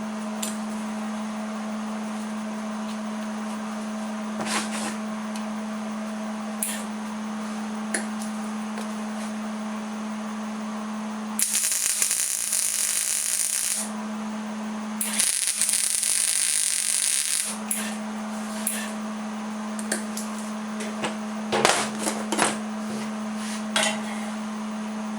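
Arc welder laying two tack welds on a steel table leg, each a harsh hiss lasting about two and a half seconds, a little before and after the middle. Scattered knocks and clicks of metal being handled come between, over a steady shop hum.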